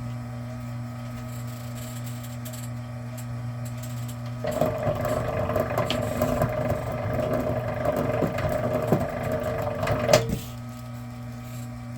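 Vevor electric wire stripping machine running with a steady motor hum. About four seconds in, a copper cord is fed through and the blade slits its insulation with an uneven grinding rattle for about six seconds, which stops abruptly as the cord comes out.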